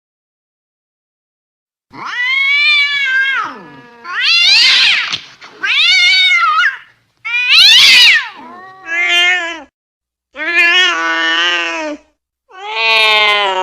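Angry domestic cat yowling: seven loud, drawn-out wails with pitch sliding up and down, starting about two seconds in.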